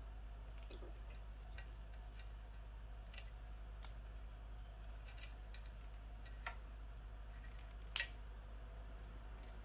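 Scattered small plastic clicks and rattles of wiring-harness connectors being worked loose by hand, with two sharper clicks about six and a half and eight seconds in, over a steady low hum.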